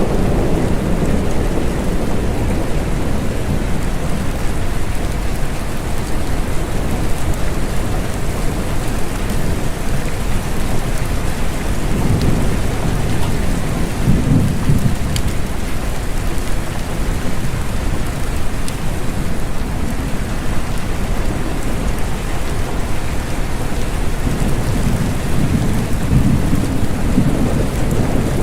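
Steady rain falling, with low rumbles of thunder swelling twice, about twelve seconds in and again near the end.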